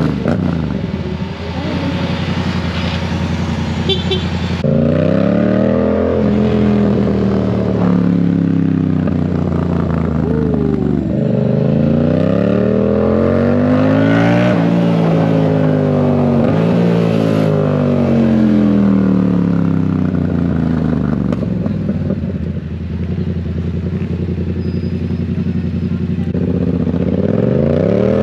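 Yamaha MT-07's 689 cc parallel-twin engine with a loud exhaust, heard from the rider's seat while riding. The engine pitch climbs and drops several times as the bike accelerates through the gears and slows, with a long fall in revs in the middle and another rise near the end, over steady wind rush.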